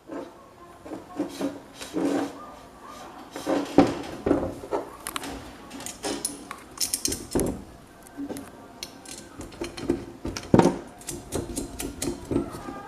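Irregular clinks and knocks of small metal fan parts being handled and set down, with sharper strikes about 4, 7 and 10 seconds in.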